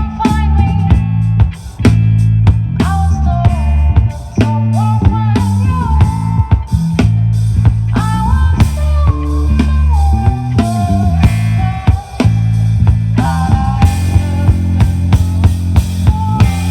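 Rock band playing an instrumental passage: a lead guitar line with sliding, bending notes over bass and a drum kit.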